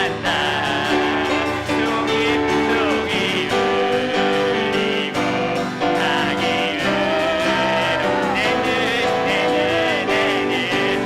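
Worship song performed by a praise team: piano accompaniment under singing, with long held vocal notes.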